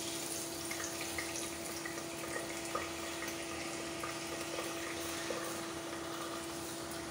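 Raw rice frying in hot cooking oil in a pot: a steady sizzle with many small crackles, starting abruptly as the rice meets the oil.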